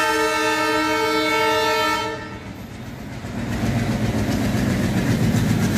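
Train horn sounding one long steady blast for about two seconds. Then the low rumble of a train rolling along the track builds up, with wheels clacking over the rail joints.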